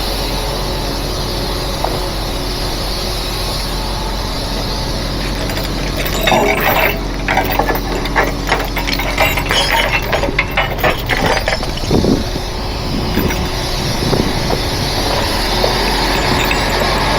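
A truck engine running steadily, with a run of metal rattling and clanking from about six seconds in to about thirteen seconds, typical of loosened tie-down chains being pulled off.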